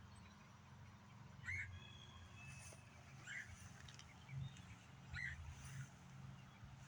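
Faint bird calls: short chirps repeated about every two seconds, with a few thinner higher notes between them, over a steady low rumble.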